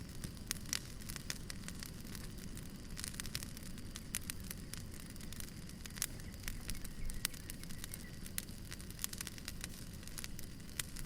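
Wood fire crackling, with many sharp irregular pops over a low steady rumble.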